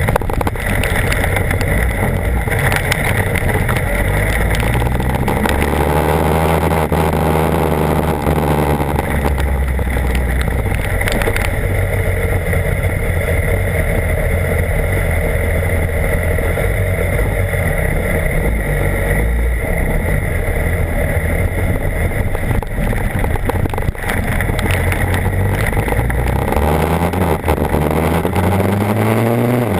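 BMW HP4 superbike's inline-four engine running while riding, over steady wind and road noise; its pitch rises in the last few seconds as the bike accelerates.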